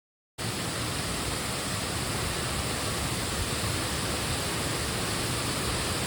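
Waterfall rushing into its plunge pool: a steady, even roar of falling water that cuts in abruptly about half a second in.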